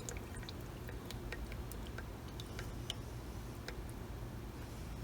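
Fuel dripping from a Holley 1850-2 carburetor: small, irregular ticking drops over a low steady hum.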